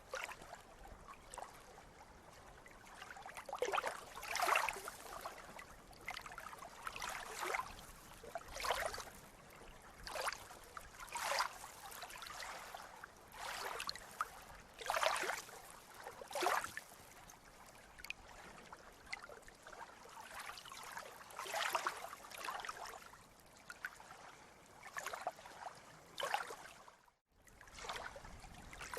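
Sea water lapping and splashing against the shore in short washes every second or two over a steady hiss, with a brief dropout near the end.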